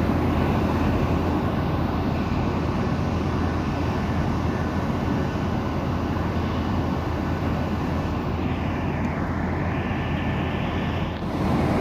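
Steady jet engine and airflow noise of a Boeing 737-900ER with its CFM56-7B turbofans, heavy in the low end. It breaks off briefly near the end, then comes back.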